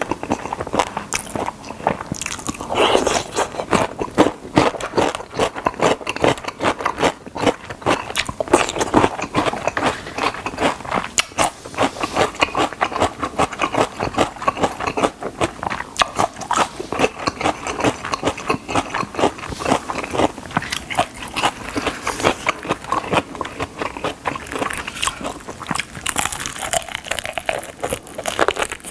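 Close-miked biting and chewing of crispy fried chicken drumsticks: a dense, continuous run of crunches and crackles.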